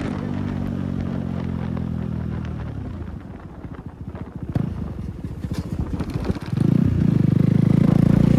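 KTM Duke 390's single-cylinder engine running with no silencer: a steady engine note that fades as the throttle closes about two and a half seconds in, irregular pops while it slows, then the throttle opens again near the end and the note comes back loud and steady.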